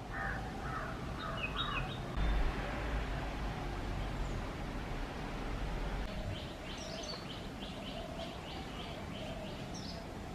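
Several small birds calling: a few quick chirps at the start, then a fast run of short, high notes repeating about three times a second in the second half. A low rumble sits underneath in the middle.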